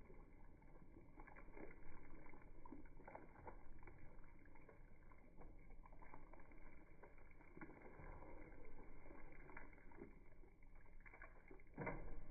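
Faint liquid sounds from a pot of chicken stock and walnut sauce: irregular soft pops and swishes.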